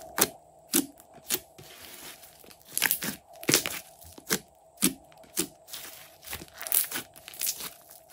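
Slime being squeezed and pressed, giving a string of sharp, irregular crackles and pops as trapped air bursts.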